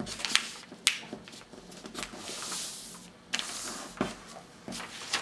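A sheet of paper being handled and folded by hand: a few sharp crackles and taps, and a longer rustling swish about two seconds in as a fold is pressed and creased.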